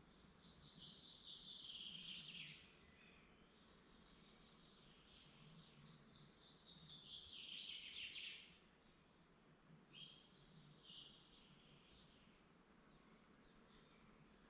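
Songbirds singing in woodland: two long trilled song phrases, each falling in pitch toward its end, then shorter scattered calls, all faint over a quiet low background hum.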